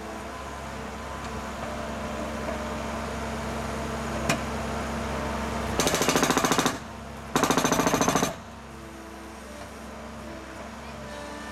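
Skid steer's concrete breaker attachment hammering in two short bursts of rapid blows, each about a second long, over the skid steer's engine running steadily. A single sharp knock sounds about four seconds in.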